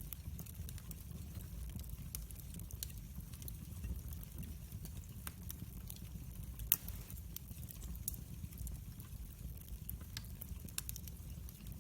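Wood fire crackling in a fireplace: a steady low rumble of burning with scattered sharp pops and snaps, one louder pop about two-thirds of the way through.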